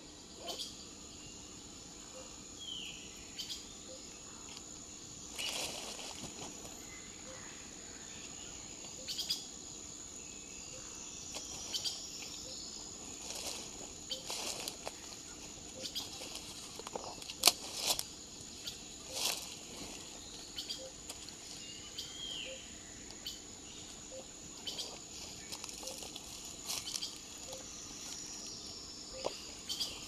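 Outdoor insect and bird ambience: a steady high-pitched insect drone with short bird calls over it, and scattered sharp clicks, the loudest a little past halfway.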